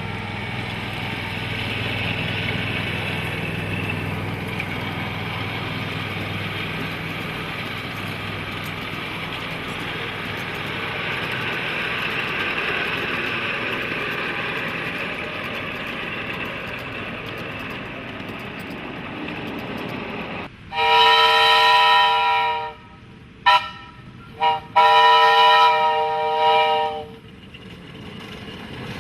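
Horn of a ride-on scale train sounding one steady note: a long blast, two quick toots, then a second long blast. Before it comes the steady running hum of the train.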